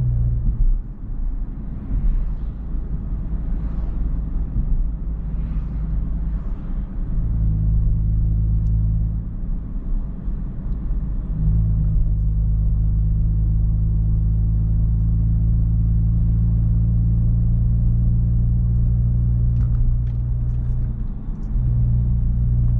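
Audi S5's engine and road noise heard from inside the cabin: a steady low drone that thins out for a few seconds early on and dips briefly near the end.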